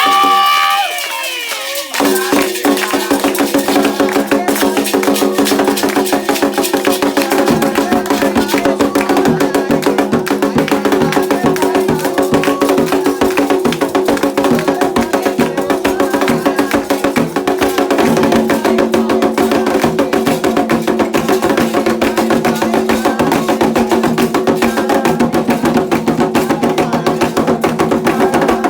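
Candomblé ritual music: hand drums and a struck bell or wood-block-like percussion beating a fast, steady rhythm that starts about two seconds in, with sustained voices or instruments holding tones above it.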